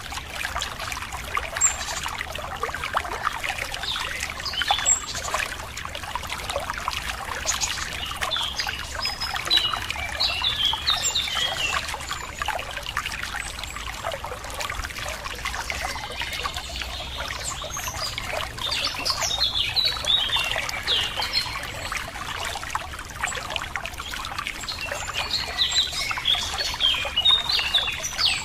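Water trickling and splashing steadily, with small birds chirping in short bursts of calls, in clusters several seconds apart.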